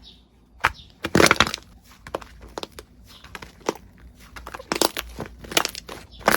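Crunchy slime being squeezed and pressed, giving irregular crackling crunches, the loudest about a second in and another cluster near the end.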